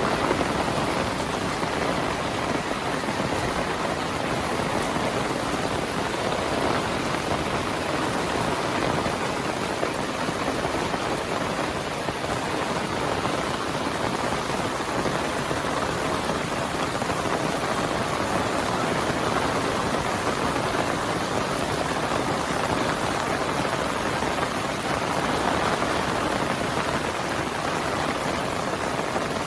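Heavy rain falling steadily, a dense even hiss of raindrops on surfaces.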